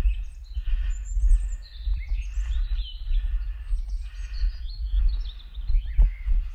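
Songbirds chirping and singing in a forest, several short calls and trills overlapping, over a steady low rumble of wind on the microphone.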